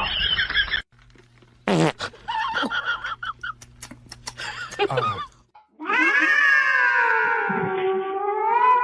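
A cat yowling in one long drawn-out call that falls in pitch and then levels off, over the last four seconds or so. Before it come a few short, sharp sounds and clicks.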